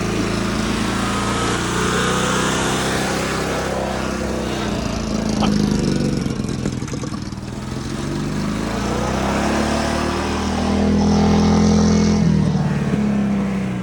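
Lawnmower engine running under load while the machine drives, its pitch rising and falling with the throttle. It is loudest about two-thirds of the way through.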